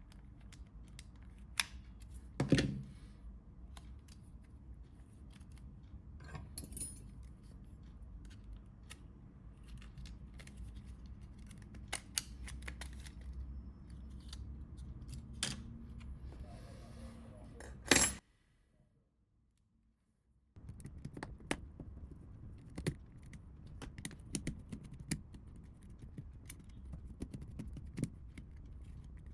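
Scattered small clicks, taps and scrapes of a Nokia 3310 and small tools being handled during disassembly, with two sharper clicks and a short break of silence just past the middle.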